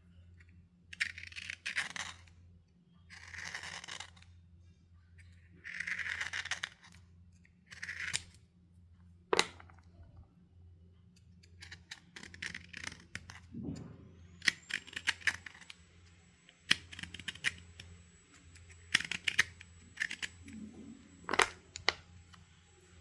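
Stick chalk being scraped in several rasping strokes of about a second each, followed by crisp snaps and crackling as the chalk is crunched. A faint steady high whine comes in about two-thirds of the way through.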